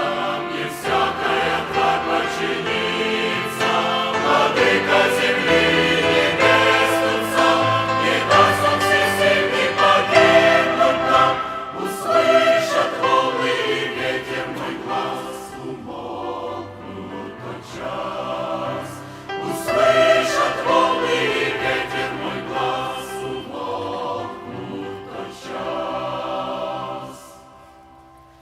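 A choir singing a Christian hymn; the singing dies away shortly before the end.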